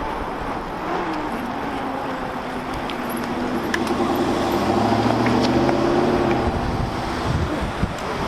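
A motor vehicle engine running in street traffic. It grows louder about three seconds in, rising a little in pitch, and fades again about a second before the end.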